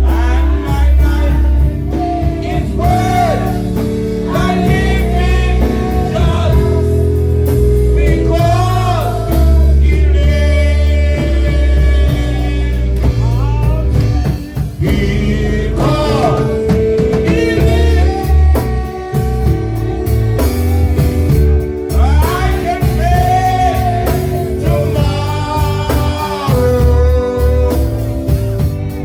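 Live church worship music: a sung melody line over a band with a heavy, sustained bass.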